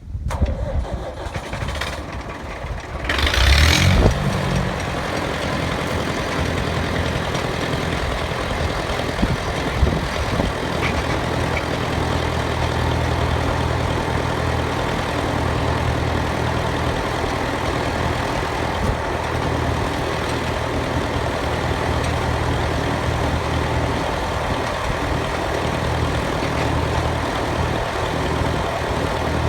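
International Harvester B275 tractor's four-cylinder diesel engine cranked on the starter. It catches with a loud burst about three to four seconds in, then settles to a steady idle.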